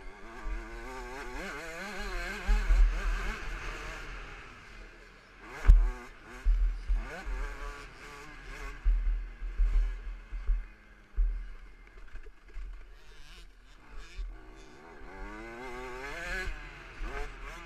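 KTM 65 SX 65 cc two-stroke engine revving up and down again and again as the bike rides, heard through an on-board action camera with heavy wind buffeting. A sharp thump about six seconds in is the loudest sound.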